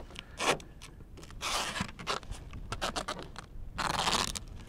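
Duct tape being pulled off the roll in three rasping rips, with small crackles and clicks of handling in between, as it is wrapped around a motorcycle helmet.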